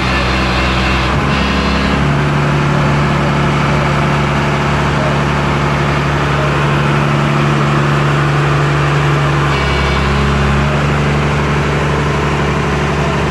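Heavy diesel engine of the machinery (excavator or truck) running steadily. Its pitch steps up about two seconds in and drops back near ten seconds, as the engine speed changes.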